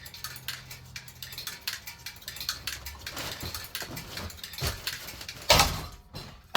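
Clattering and rattling of a flimsy ceiling fan being knocked about, with one loud, hard hit about five and a half seconds in.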